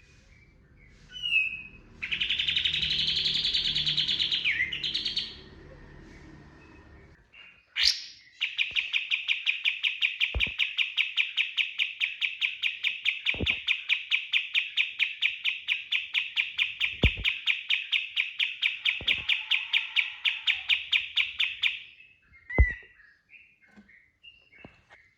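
Kapas tembak singing. About two seconds in it gives a harsh, scratchy burst lasting about three seconds. Then comes a long, fast trill of evenly repeated notes at about five a second, the rapid-fire 'tembakan' that keepers prize, running for roughly thirteen seconds, with a few sharp clicks over it.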